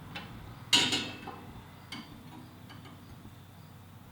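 Metal hand tools clinking against metal: one sharp, ringing clink about a second in, then a few light ticks and taps.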